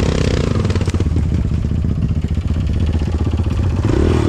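Off-road vehicle engine running at low revs while it picks its way along a rutted trail, picking up revs near the end.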